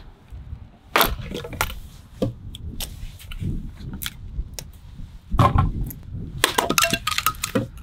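Firewood being gathered and broken up: dry sticks cracking and snapping in irregular bursts, with crunching and a rough low rumble of handling underneath.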